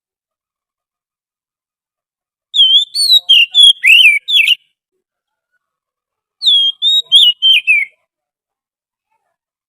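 Oriental magpie-robin (kacer) song: two quick phrases of four to six clear, sliding whistled notes, a couple of seconds apart, with dead silence before and between them.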